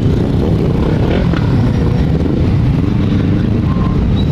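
Motorcycle engine running steadily, its pitch rising and falling slightly.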